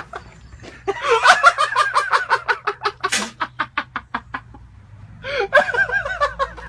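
Someone laughing hard in runs of quick, evenly spaced 'ha' pulses, with a sharp gasp of breath in the middle and a low steady hum underneath.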